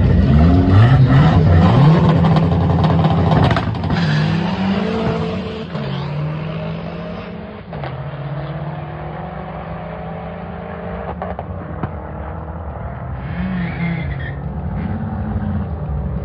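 Drag-race car engines revving and accelerating, the pitch climbing and dropping several times, loudest in the first four seconds. After that the engine sound is fainter and steadier, and it swells and falls again near the end.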